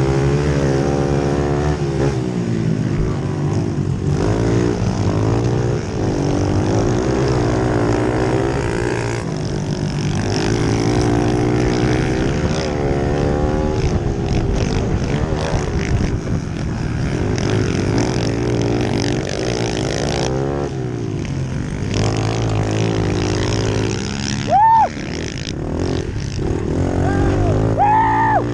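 Pit bike engines racing, their pitch rising and falling as the throttle opens and closes. Two short high-pitched sounds cut in near the end.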